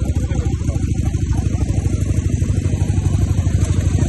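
Motorcycle engine running at low, steady revs, with a fast, even beat of exhaust pulses.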